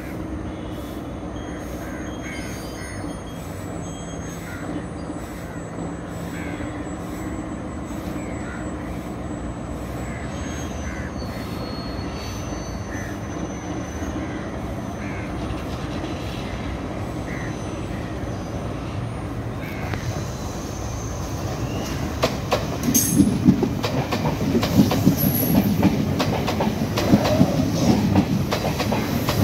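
Sri Lanka Railways diesel power set (diesel multiple unit) approaching, a steady rumble that grows louder. From about 22 seconds in, the train passes close by, its wheels clicking rapidly over the rail joints.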